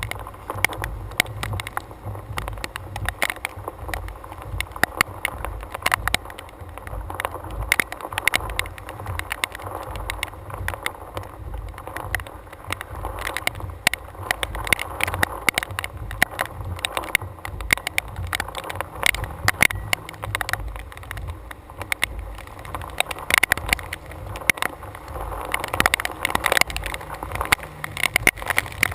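Storm wind buffeting a hood-mounted GoPro, a gusting low rumble that rises and falls, with many sharp ticks against the camera scattered throughout.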